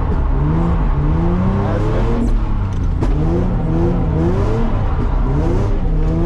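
Nissan 350Z's 3.5-litre V6 running hard while drifting, its revs climbing and dropping again and again as the throttle is worked.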